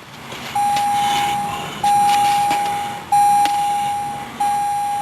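2008 Jeep Liberty's dashboard warning chime: a steady mid-pitched tone sounding four times, each beep about a second long and repeating about every 1.3 seconds, with the ignition on before cranking. A couple of faint clicks come in between.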